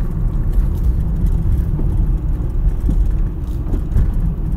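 2003 Mazda Protege5's 2.0-litre four-cylinder engine running steadily with a low rumble. The owner hears a small odd noise in it that sounds like knocking and wonders whether it is the alternator bearing.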